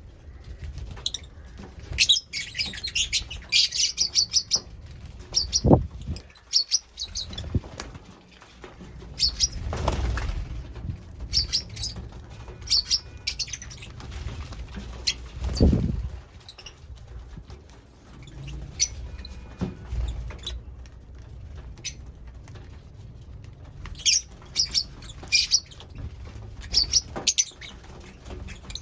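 Lovebirds chirping in clusters of rapid, high chirps, with wing flaps and a few dull low thumps in between.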